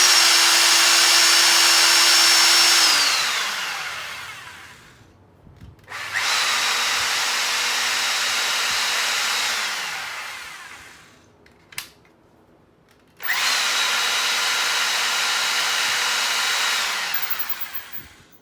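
Hilti TE 55 combination hammer drill running in three bursts of a few seconds each, its motor giving a steady whine and winding down slowly after each release of the trigger; a sharp click falls between the second and third bursts. A function test of the tool.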